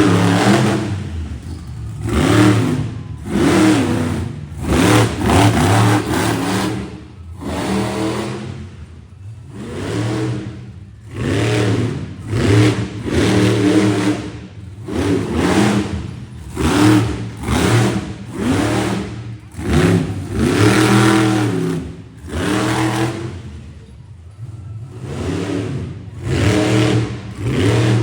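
Monster truck engine revved over and over, about every one to two seconds. Each rev swells up in pitch and falls away.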